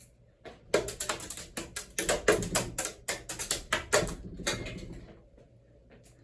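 Running ceiling fan with damaged blades clattering, a rapid run of knocks about six a second that fades out after about five seconds.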